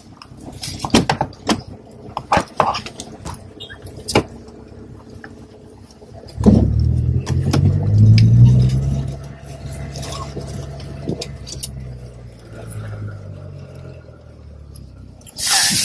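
Clicks and rattles of a car seat belt being pulled and handled. About six seconds in, a car engine starts with a sudden low rumble, runs higher for a few seconds, then settles to a steady idle.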